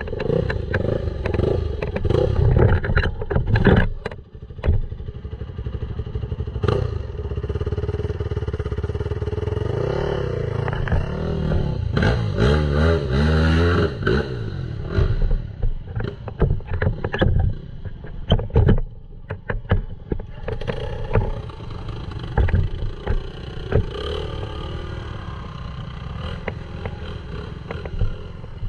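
Dirt bike engine running under way on a forest trail, its note rising and falling with the throttle, most sharply about halfway through, with knocks and clatter from the rough ground throughout.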